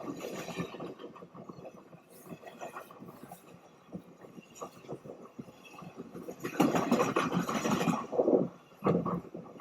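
Freight train's cars rolling past, with irregular clanking and knocking and a louder stretch about two-thirds of the way through.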